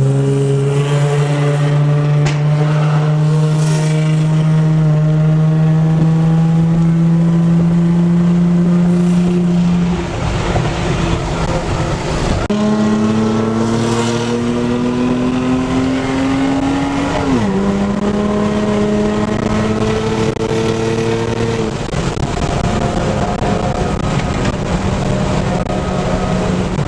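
Car engine pulling steadily under acceleration, its note climbing slowly for about ten seconds, then a gear change and another slow climb, with a sudden drop in pitch at a second shift about seventeen seconds in, over road noise.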